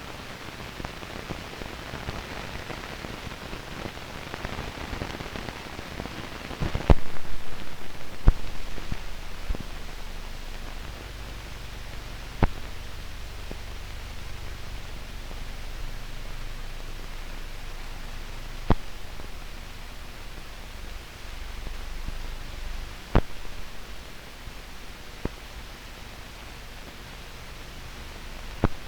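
Steady hiss and crackle of a silent stretch of old film soundtrack, with a low hum and a handful of sharp pops spread through it. The crackle is densest about a quarter of the way in.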